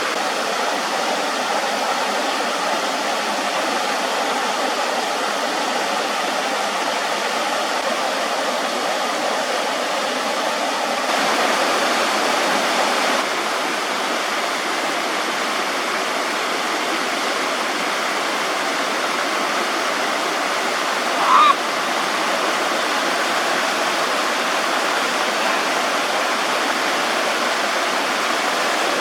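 Steady rushing of flowing water, as from a stream or small waterfall, with a slight swell in level about eleven seconds in. A single brief high chirp cuts through about two-thirds of the way in.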